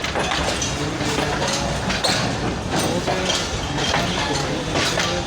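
Departing passenger train rolling past, a steady rumble with repeated clacks and knocks of the wheels over the rail joints.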